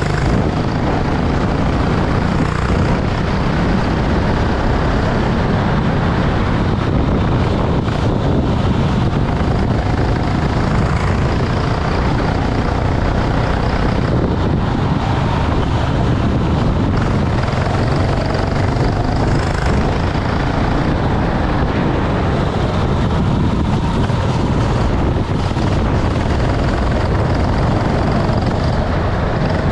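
Racing kart running in the rain: the engine note can be heard under a steady, dense rush of wind and wet-track noise.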